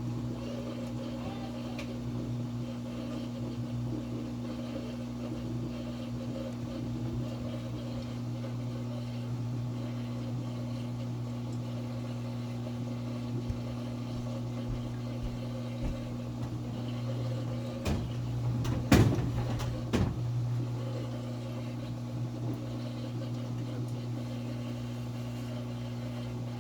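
Samsung top-load HE washing machine running with a steady, unchanging hum that never rises into a spin, the sign of the unbalanced-load "DC" fault that stops it spinning out. A few knocks come about two-thirds of the way through.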